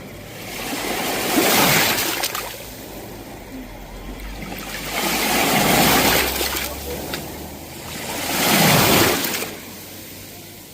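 Sea waves breaking and washing onto the shore, three waves in turn, each building up and fading away, every three to four seconds.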